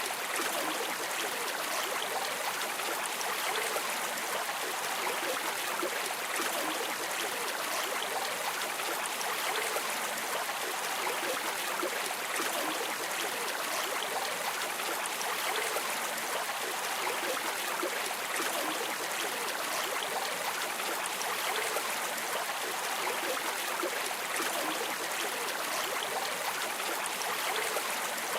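River water streaming and rippling steadily, an even rushing hiss with no breaks.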